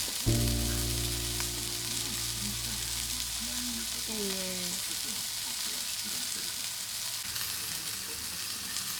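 Yakiniku meat sizzling steadily as it grills, a constant high hiss. The tail of a pop song fades out in the first few seconds.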